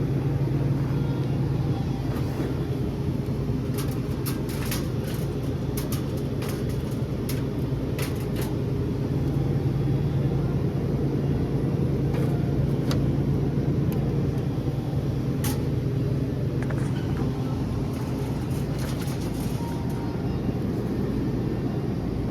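Car driving: a steady low rumble and hum of engine and road noise, with a few light clicks.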